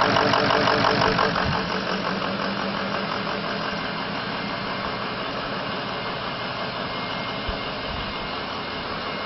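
Ford 6.0 litre Power Stroke V8 turbo-diesel of a 2003 F-350 Super Duty idling, a little louder for the first second or so, then settling to a steady idle.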